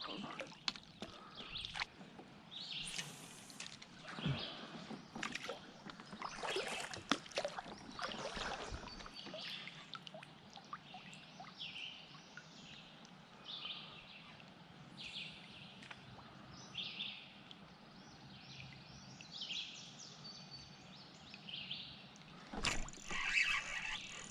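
Water sloshing and lapping against a fishing kayak with small knocks from gear, under repeated short high chirps of songbirds about once a second; a louder burst of noise comes near the end.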